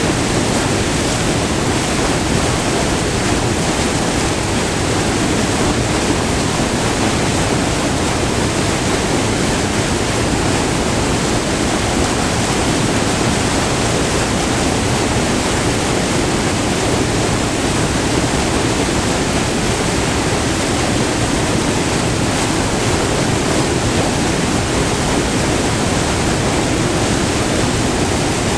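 White water rushing steadily over the rocky tiers of a small, multi-tiered river waterfall, heard up close as a constant, loud, even roar.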